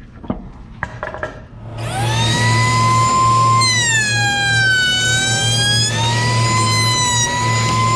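A table-mounted router with a roundover bit is switched on about two seconds in and spins up to a loud, high whine over a low hum. A few light knocks of the workpiece being handled come before it. The whine sags in pitch about halfway through as the bit takes its cut across the end grain of a wooden panel, then climbs back.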